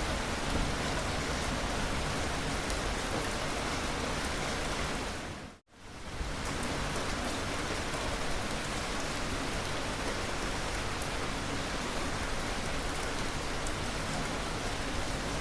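Steady, dense rainfall. About five and a half seconds in, it fades away to a moment of near silence and swells back within about a second.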